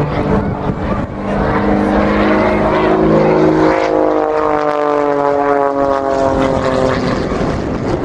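Pitts Special aerobatic biplane's piston engine and propeller droning, the pitch gliding slowly downward from about halfway through.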